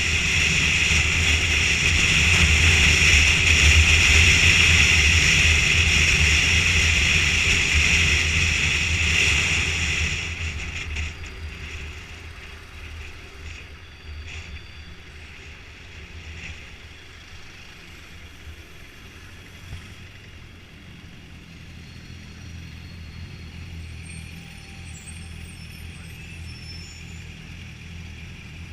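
Motorcycle running on the road with steady engine and wind noise, loud for about the first ten seconds, then much quieter.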